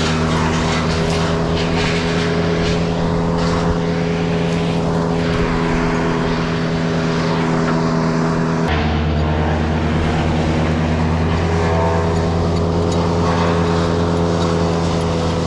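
Crane's engine running steadily under load, its note dropping slightly and settling about nine seconds in.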